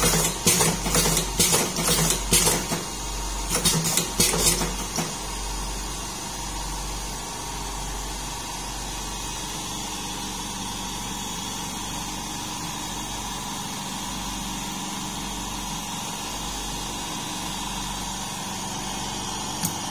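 Magnum Super Turbo automatic cigarette filling machine running: sharp mechanical clacks, about two a second, for the first five seconds, then a steady motor hum.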